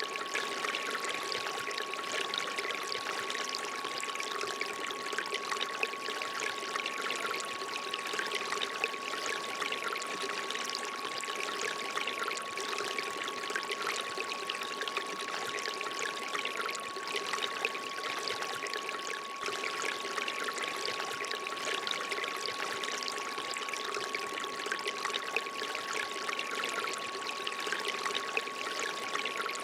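Water trickling and pouring steadily from a bamboo fountain, over a single steady pure tone held throughout.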